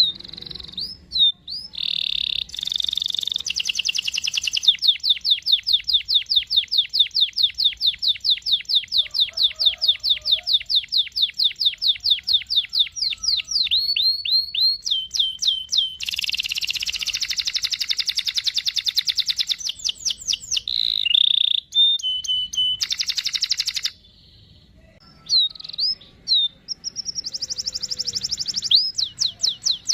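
Domestic canary singing long rolling trills: rapid, evenly repeated high whistled notes held for many seconds at a time, broken by short chirps and changes of phrase. The song pauses briefly about three-quarters of the way through.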